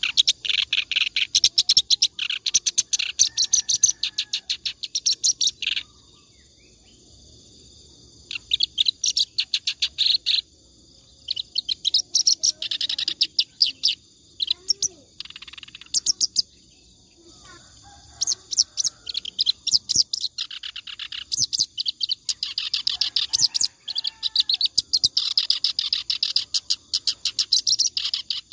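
A reed warbler (kerak basi) singing non-stop. Its phrases of fast, harsh, chattering notes run a few seconds each, with short pauses between them.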